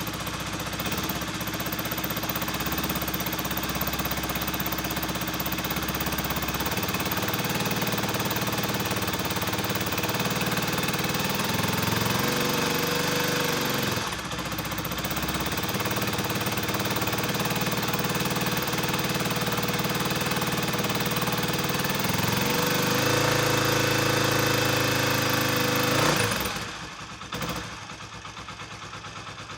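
Kawasaki Estrella's air-cooled single-cylinder engine running, revved up twice and held briefly each time, then dropping away sharply near the end.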